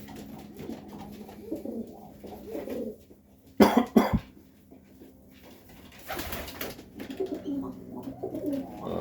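Serbian Highflyer pigeons cooing, with a couple of loud, sudden sharp sounds about four seconds in and a short rustling burst about six seconds in.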